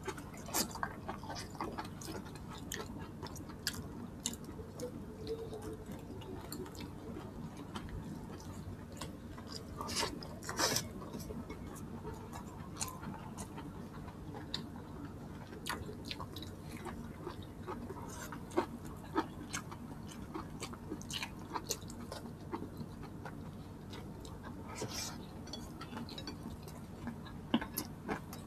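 Close-up chewing of boiled pork and rice, with scattered small wet clicks and taps from hands handling the food, a few of them louder.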